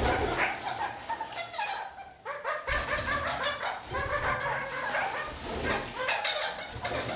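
Red-crowned kakariki (parakeets) chattering: runs of many quick, short chirping calls that overlap almost without a break, with a short lull about two seconds in.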